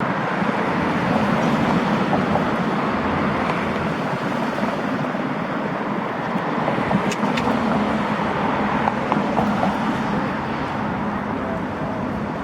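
Eurocopter AS350B2 light helicopter, its single turbine engine and main rotor running steadily, a dense throbbing with a low hum.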